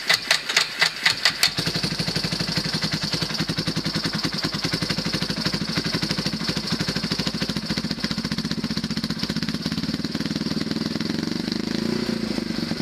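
Yamaha YFM350 Warrior ATV's single-cylinder four-stroke engine catching after a hard start: a few uneven firings in the first second and a half, then it settles into a steady, even idle with the idle turned up.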